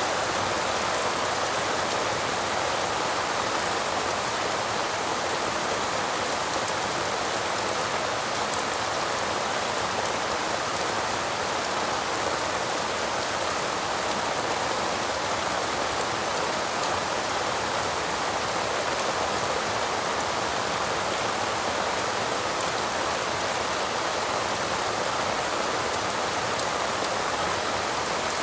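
Steady rain falling, an even, unbroken hiss with a few faint ticks.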